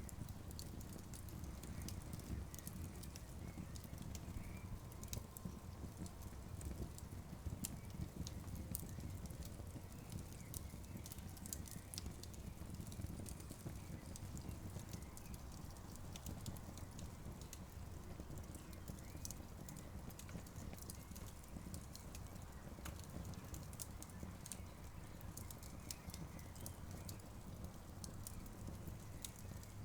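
Wood campfire crackling, with frequent sharp pops and snaps scattered irregularly over a steady low rumble.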